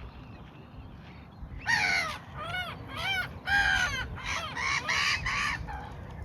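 A large bird calls about eight times in quick succession, starting a little under two seconds in. Each call is short, loud and pitched, arching up then down, over a low rumble of wind and ambient noise.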